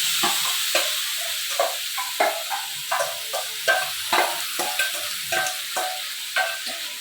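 Marinated chicken sizzling in hot oil with browned onions in a kadai, stirred with a spatula that scrapes the pan about three times a second. The sizzle is loudest at first and slowly dies down.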